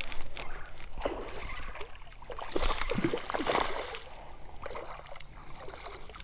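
Irregular water splashing and sloshing as a hooked bass is brought in and landed.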